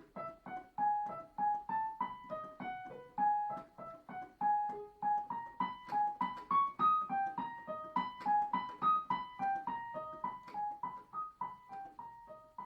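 Solo piano playing a quick run of short, even notes in C-sharp minor. It starts quietly, grows louder through the middle and fades again toward the end.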